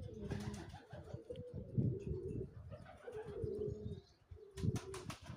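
Domestic pouter pigeons cooing: several low, pulsing coo phrases one after another, with a short clatter near the end.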